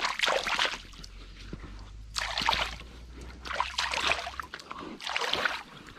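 Muddy rubber gumboots being washed in a shallow river: water splashes and sloshes in four bursts about a second and a half apart.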